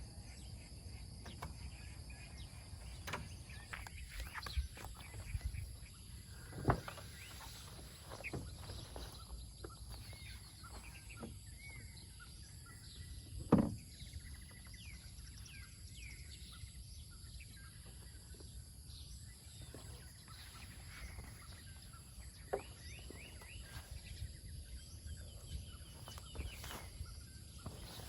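Birds chirping over a steady high insect drone, with scattered sharp knocks and clicks, the loudest about halfway through.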